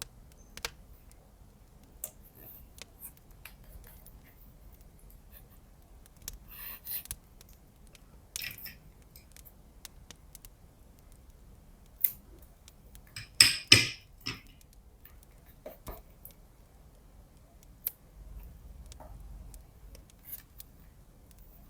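Scissors cutting, among scattered light taps and handling sounds of paper and tape. The loudest moment is a quick run of cuts a little past halfway.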